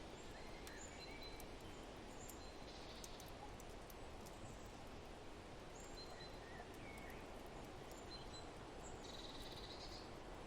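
Faint birdsong of short high chirps and whistles, with a buzzier trill near the end, over a steady wind-like hiss. Light fire crackles tick now and then.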